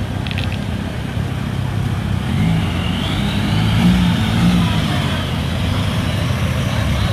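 Car and pickup engines running in slow street traffic, a steady low rumble that swells a little about halfway through as one vehicle comes closer, with a faint whine that rises and then falls.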